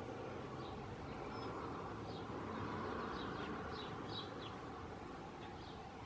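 A small bird chirping, a quick run of short high notes clustered in the middle, over a steady background noise.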